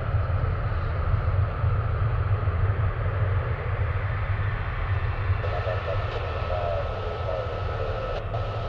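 Boeing 737-800 jet airliner's CFM56 engines running with a steady deep rumble that eases slightly toward the end. About five seconds in, a faint, muffled air traffic control radio voice comes in over it with a thin steady tone.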